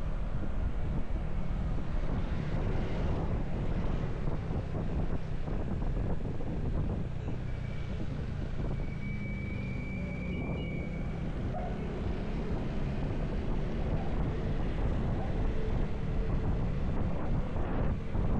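Motorcycle engine running steadily while riding, mixed with wind buffeting the microphone.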